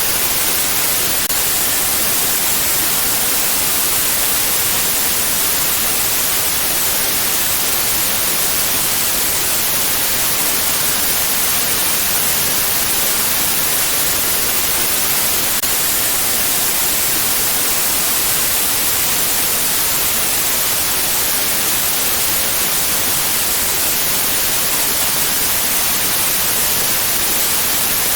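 Steady white noise: an even hiss with no changes, strongest in the high frequencies.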